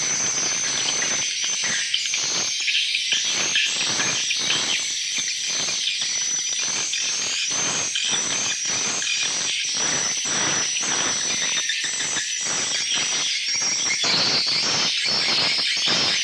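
A colony of edible-nest swiftlets chattering inside a swiftlet house. It is a dense, unbroken high twittering over many quick, irregular clicks.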